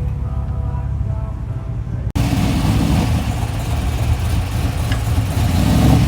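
Car engines running at a street meet: a deep, steady engine sound, then, after an abrupt cut about two seconds in, louder and harsher engine noise.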